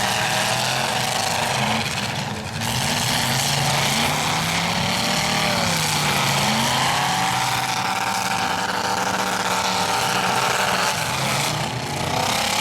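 Several stock pickup trucks' engines running hard and revving together in a demolition derby, their pitches rising and falling as the drivers throttle up and back off.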